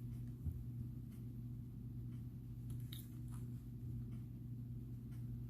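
Glass and gemstone beads clicking faintly a few times as they are handled and strung onto a bracelet, over a steady low electrical hum.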